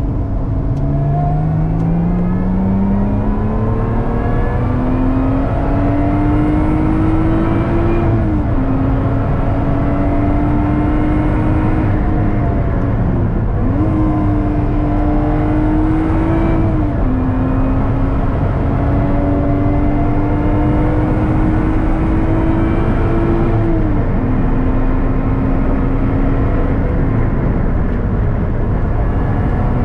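Lotus Exige 410's supercharged V6, heard from inside the cabin, accelerating hard out of a corner: the revs climb for several seconds and drop sharply at each upshift from third to fifth gear. Near the end the throttle comes off and the engine holds a steady lower note over road and wind rumble.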